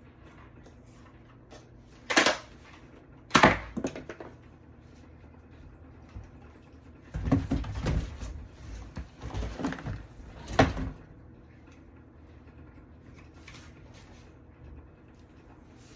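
Separate knocks and clunks: two sharp ones in the first few seconds, then a stretch of busier handling noise with clunks in the middle, ending on another sharp knock.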